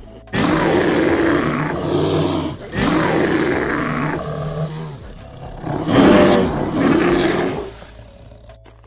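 An animal roaring: three long, rough roars of about two seconds each, with short pauses between them.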